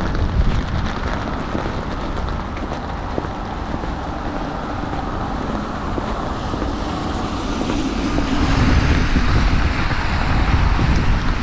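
Wind rumbling on the microphone over a steady outdoor hiss, growing louder about eight seconds in.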